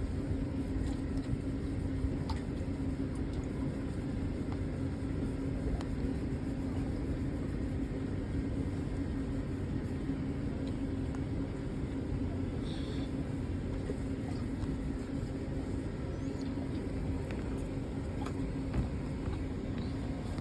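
Steady low machine hum with one constant tone, unchanging throughout.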